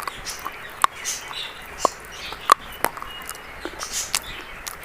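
Dry chalk crunching, a brittle 'brown biscuit' type: a string of sharp, irregular crisp cracks, the loudest about halfway through.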